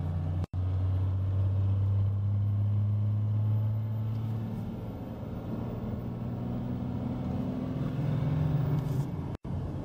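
A Dodge pickup's 5.9 Cummins turbo diesel, with its fuel injection turned up, heard from inside the cab as a steady low drone while cruising at highway speed. The sound cuts out for an instant twice, about half a second in and near the end.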